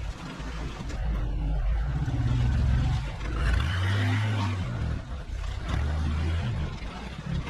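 Delivery truck engine running, its pitch stepping up and down as the engine speed changes.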